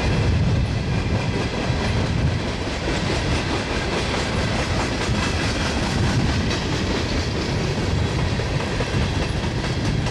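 Empty Herzog ballast hopper cars rolling past on steel rails: a steady rumble of wheels on track, with a run of wheel clicks.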